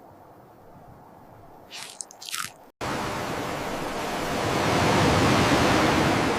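A few short crunches about two seconds in, then, after an abrupt cut, a loud steady rush of blizzard wind that swells.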